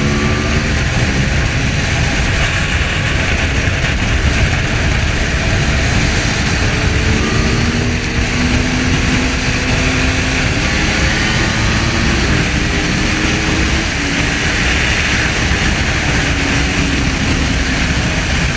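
Engines of a Lamborghini Aventador and a 2012 Yamaha R1 at high speed in a race, under heavy wind rush on the microphone. The engine note climbs slowly and drops back a few times.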